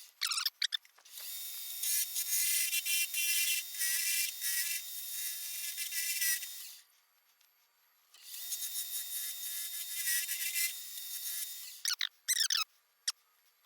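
A turning tool cutting a spinning hickory blank on a wood lathe, making a steady hissing, shaving sound in two long passes with a short break between them. Brief sweeping sounds come near the start and again at about twelve seconds in.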